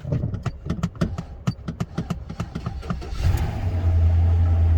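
Chevy Silverado pickup engine cranking on the starter with a jump from another car's battery: about three seconds of even cranking strokes, about five a second. It then catches and settles into a loud, steady idle, with no knock heard; the engine sounds really good.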